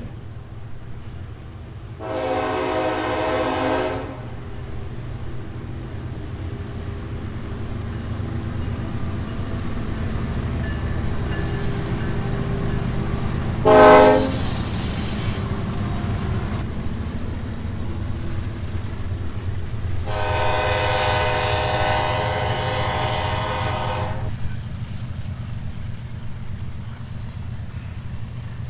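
BNSF freight locomotive's air horn sounding three blasts, long, short, then long, over the steady rumble of the moving train.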